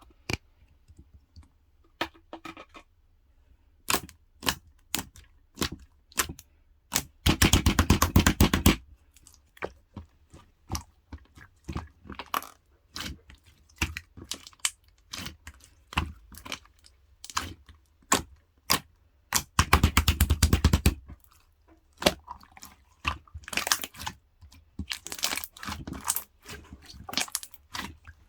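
Sharp crackling clicks from a white jjondeugi chewy snack and its plastic wrapper being handled and torn, with two longer bursts of rapid crackling, about seven and twenty seconds in.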